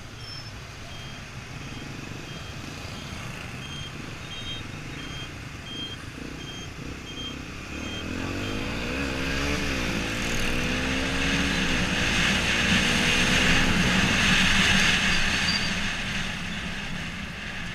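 Yamaha XTZ 125's single-cylinder four-stroke engine running on the road with wind noise. About eight seconds in the revs climb, dip once, climb again and hold, while the wind rush grows louder and then eases off near the end.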